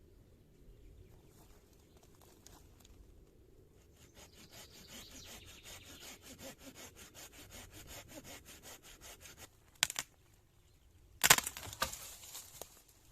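A hand saw cutting through wood with quick, even strokes, then a sharp crack and a louder one about a second and a half later as the wood splinters.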